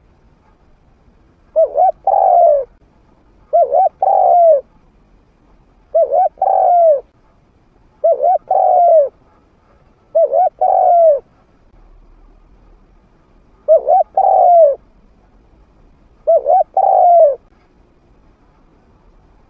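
Spotted dove cooing: a trained decoy bird's medium-pitched call, used to lure wild doves. Seven phrases about every two seconds, each a short coo then a longer coo that drops in pitch at its end, with a longer pause midway.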